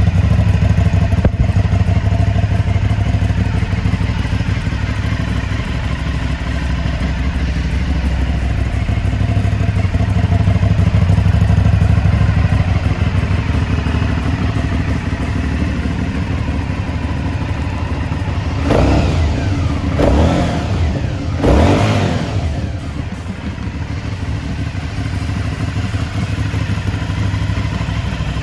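Aprilia Shiver 750's 750 cc V-twin idling steadily through its twin underseat exhausts. About two-thirds of the way through, the throttle is blipped three times in quick succession, each rev rising and falling back to idle.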